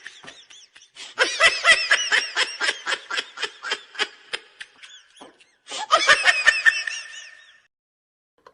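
Laughter sound effect: a high-pitched run of rapid laughs beginning about a second in and tailing off, then a second, shorter burst of laughing that stops before the end.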